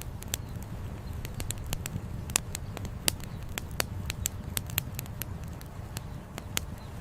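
Wood campfire crackling, with irregular sharp pops, several a second, over a steady low rumble.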